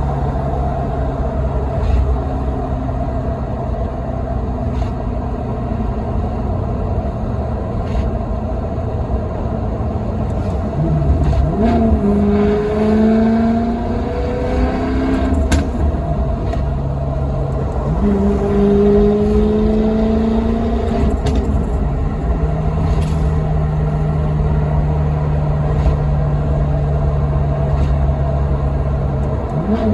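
Maserati Quattroporte V8 engine while driving: a steady drone over road noise, then about eleven seconds in it accelerates, the pitch climbing in steps through a couple of gear changes before settling back. It climbs again more gently a little later, then holds steady.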